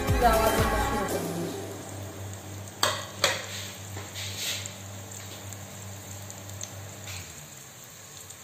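Cashews, raisins and whole spices sizzling softly in ghee in a rice cooker's metal inner pot, with two sharp knocks on the pot about three seconds in.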